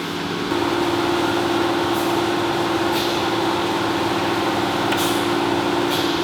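Bryant gas furnace motor starting up about half a second in and running with a steady hum, the furnace powered up with its door safety switch held closed. A few faint clicks sound over the hum.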